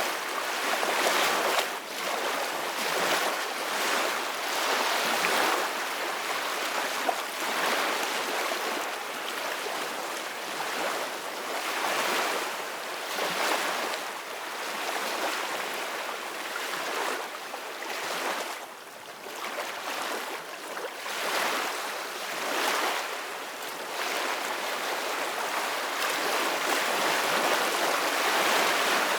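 Sea waves breaking and washing ashore, a steady hiss that swells and fades every few seconds.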